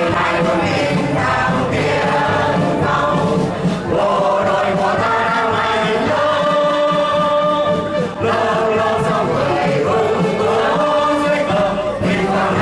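A choir singing a song with musical accompaniment, in long held notes.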